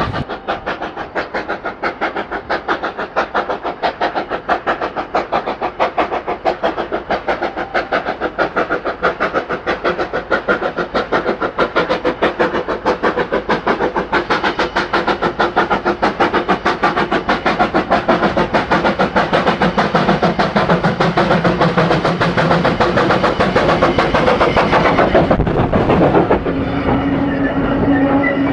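Industrial tank steam locomotive working a train, its exhaust beating in a fast, even rhythm that slowly grows louder. Near the end the beats die away and a steady low tone takes over.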